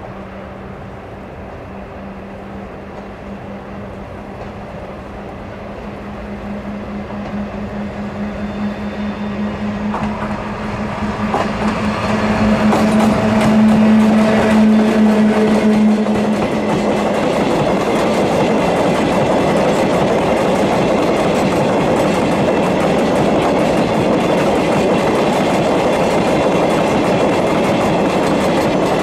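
A train approaching and passing close by: a steady hum grows louder over the first half, then gives way to the continuous rumble and clickety-clack of wheels over the rails as the cars go by.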